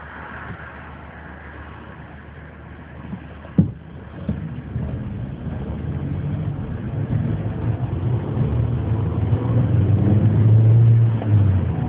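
Racing car engine running low and steady, then a sharp knock about three and a half seconds in, after which the engine note builds and grows louder toward the end.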